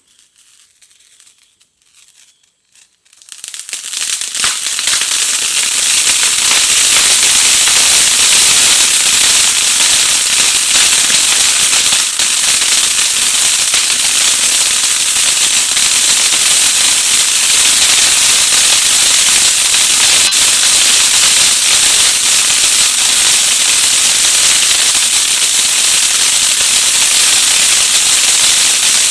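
Kuil crackling fountain firework going off: about three seconds in, a hiss builds quickly into a loud, steady, dense crackling spray that keeps going without letting up.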